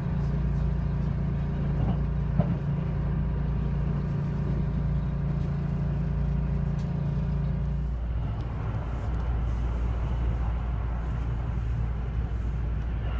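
Steady running noise of a train heard from inside the carriage. A low hum with steady tones gives way about eight seconds in to a rougher, noisier rumble.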